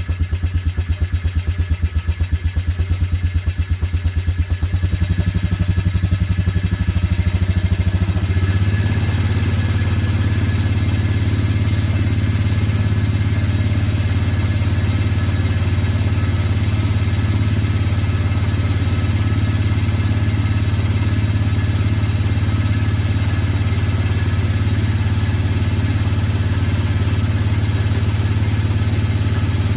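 Engine running just after a cold start, pulsing unevenly for about the first eight seconds, then settling into a steady idle.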